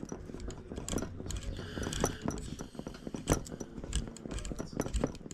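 Irregular clicks, taps and short scrapes of a hand tool and small metal parts as a nitro engine is worked onto its mounts in an RC car chassis, its mount screws being tightened and adjusted.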